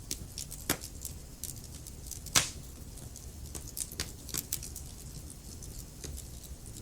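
Wood fire crackling in a fireplace: scattered sharp pops and snaps over a low steady rumble, the loudest pop about two and a half seconds in.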